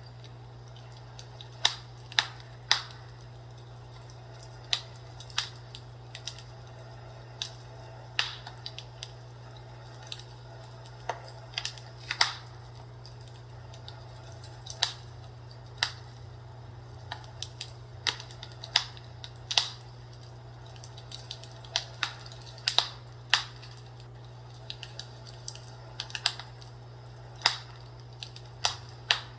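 Fireplace crackling as wood burns: irregular sharp pops and snaps, some in quick clusters, over a steady low hum.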